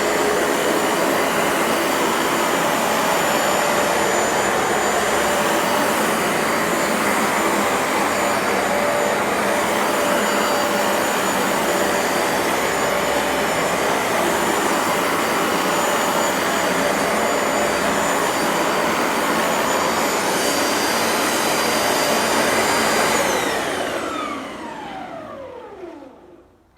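Bissell ProHeat 2X carpet cleaner running steadily, a loud rushing noise with a high whine. About 23 seconds in it is switched off and its motor winds down, falling in pitch over a few seconds.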